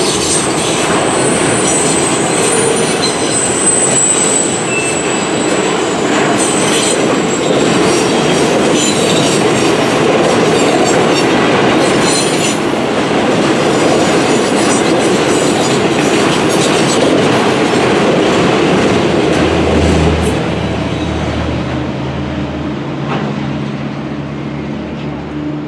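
Freight train cars rolling past on steel wheels, with clickety-clack over the rail joints and high-pitched wheel squeal. The train noise fades over the last few seconds, and a low steady hum comes in about twenty seconds in.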